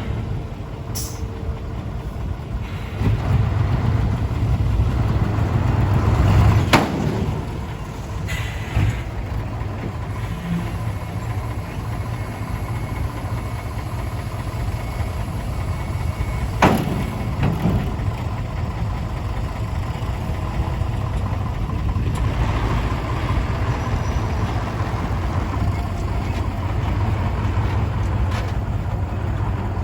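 Diesel engine of a ten-wheel dump truck running steadily, swelling louder for a few seconds near the start, with two sharp clicks about seven and seventeen seconds in.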